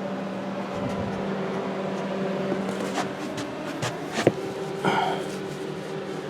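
A few light clicks and knocks, the loudest about four seconds in, then a short squeak, as spark plug wires are handled and sorted, over a steady background hum.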